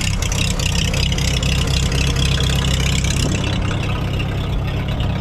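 Farmall H tractor's four-cylinder gasoline engine running steadily just after start-up. Its upper hiss eases about two-thirds of the way through.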